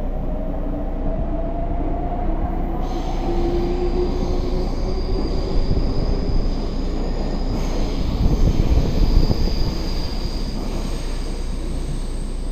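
Meitetsu electric trains moving through an underground station: a departing train's motor whine rises in pitch over the first few seconds as it speeds up, joined by a thin high wheel squeal. The rumble of wheels on rail swells louder about two-thirds of the way through.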